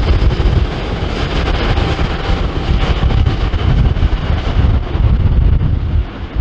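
Airliner jet engine noise, a steady loud rush with a deep rumble, mixed with wind buffeting the microphone.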